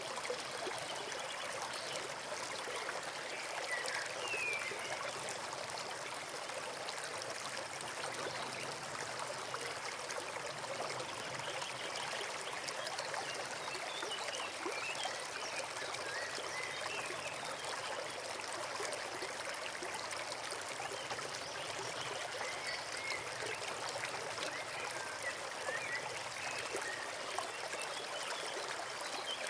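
Small forest brook babbling and trickling steadily, with a few faint high chirps here and there.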